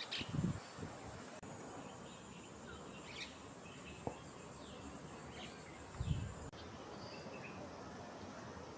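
Faint outdoor birdsong: scattered short chirps and falling notes over a steady high insect buzz, which cuts off about two-thirds of the way through. A brief low thump comes just before the buzz stops.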